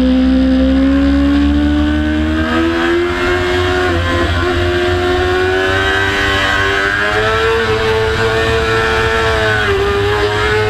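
Sport motorcycle engine at high revs on a racetrack, its pitch climbing gradually with a few brief small dips.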